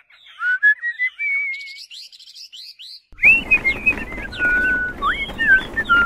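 Birdsong: quick thin chirps and short rising whistles. About three seconds in, a busier chorus of chirps starts over a steady background hiss.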